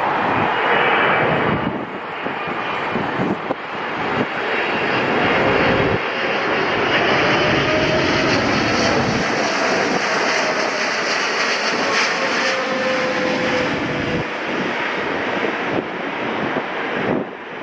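Jet engines of a landing Boeing 777 airliner, a loud steady roar with a faint whine that dips slightly in pitch midway as the aircraft passes.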